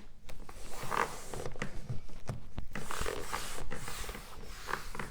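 Hands pressing and rubbing an adhesive-backed leather armrest cover down onto a door panel: irregular rubbing noise with scattered short clicks.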